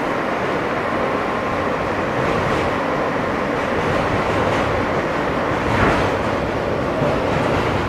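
R160 subway car running between stations, heard from inside the car: a steady rumble of wheels on rail with a brief louder swell about six seconds in.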